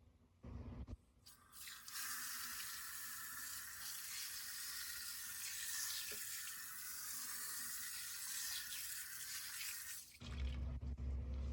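Water tap running steadily into a sink, turned on about a second and a half in and shut off abruptly about ten seconds in. A low rumbling noise follows near the end.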